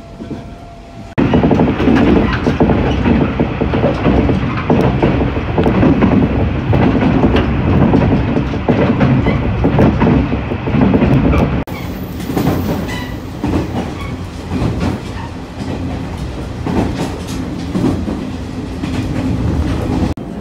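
Running noise of the Hanayome Noren, a KiHa 48 diesel railcar, heard on board: a steady rumble with wheels clacking over the rail joints. It starts about a second in, loud, and about halfway through drops abruptly to a quieter level.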